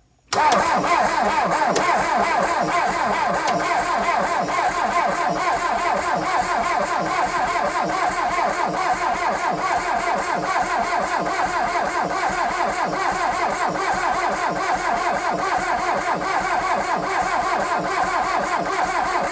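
VW Rabbit pickup's 1.6 diesel engine being cranked by its starter motor for a long stretch without firing, the starter's whine pulsing quickly and evenly with each compression stroke. It is cranked with a fuel line off to check that the injection pump delivers fuel, and the owner finds the new starter slow, as if the battery were low.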